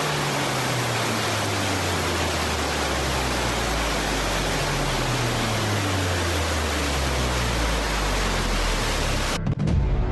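Steady, loud roar of rushing floodwater with a low drone underneath, cut off suddenly near the end.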